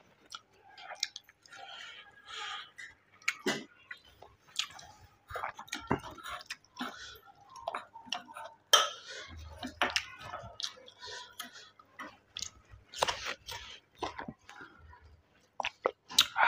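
A man chewing mouthfuls of mutton curry and rice, with irregular wet smacks and sharp clicks throughout.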